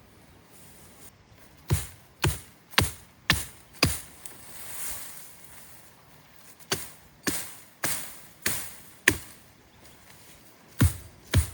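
Wood being chopped: sharp strikes about two a second, in runs of five with a few seconds' pause between runs.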